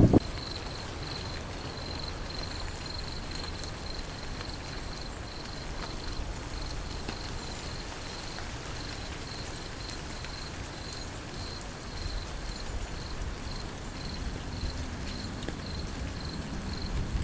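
Steady rain falling, with an insect, likely a cricket, chirping in even high pulses about two to three times a second. A brief sharp thump comes right at the start, and a low rumble swells near the end as thunder builds.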